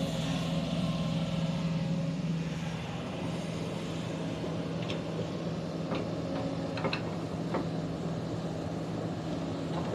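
Heavy diesel machine engine running steadily at a constant speed, with a few faint clicks or knocks in the middle.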